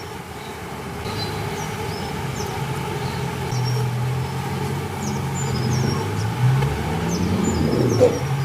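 Asian honeybees (Apis cerana) buzzing in a steady low drone around the opened hive, growing louder over the first few seconds, with small birds chirping over it and a brief knock near the end.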